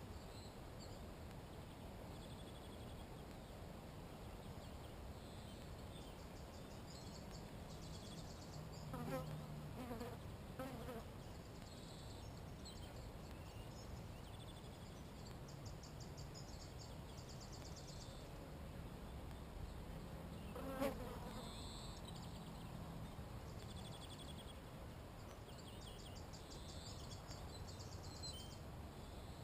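A flying insect buzzing near the microphone: a low hum that comes and goes, once briefly and then for a few seconds longer. High, rapid bird trills sound faintly several times, and a single sharp click comes about two-thirds of the way through.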